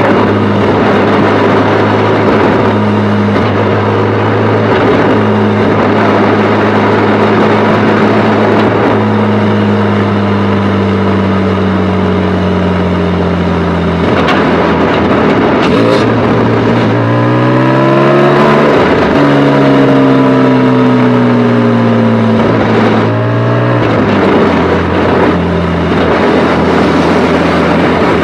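Porsche 718 Spyder's 4.0-litre flat-six pulling under way, its note sinking slowly for the first half. About two-thirds through it rises sharply under acceleration, falls back abruptly, and drops again near the end. The engine is still being run in, at about 1,500 km.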